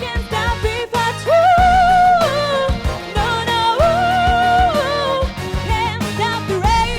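Pop song: a voice sings two long held notes with vibrato, one starting about a second in and one about four seconds in, over instrumental backing.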